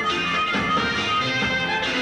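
Instrumental music from a stage ensemble performance, with many held and changing notes and no singing.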